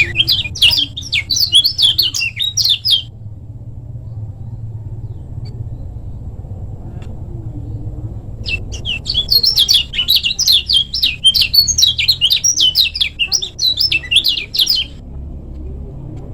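Kecial kuning, a white-eye, singing fast runs of short, rapid chirps: one burst for about the first three seconds, then a longer one from about eight and a half seconds to fifteen. A steady low rumble lies underneath throughout.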